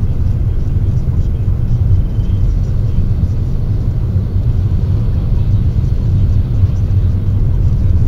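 Car running, heard from inside the cabin as a steady low rumble through a dashcam's built-in microphone.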